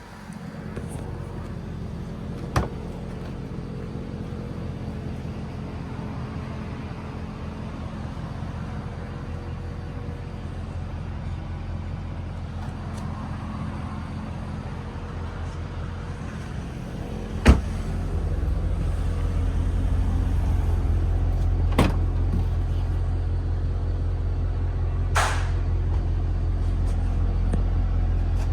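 Mercedes-Benz E63 AMG's 6.2-litre V8 idling steadily, with a few sharp clicks. About two-thirds of the way through, just after one click, the idle becomes louder and heavier in the low end.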